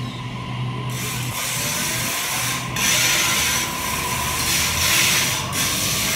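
Sydney Trains double-deck electric train rolling in along the platform. It makes a rushing, clattering rail noise over a faint steady whine, and the noise swells about a second in as the carriages come alongside.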